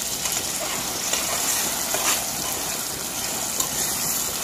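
Sliced franks, onions and sweet peppers frying in hot oil in a pot, a steady sizzle, with a metal spoon stirring through them.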